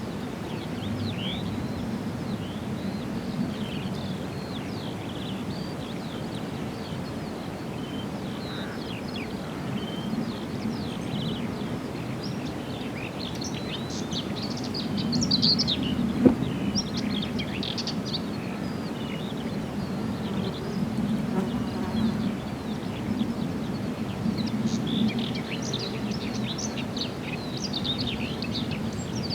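Several small birds singing, with many short high chirps and trills that come thickest about halfway through and again near the end, over a steady low hum. There is one sharp click about halfway through.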